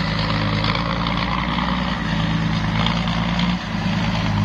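Excavator's diesel engine running steadily, with a short dip in level about three and a half seconds in.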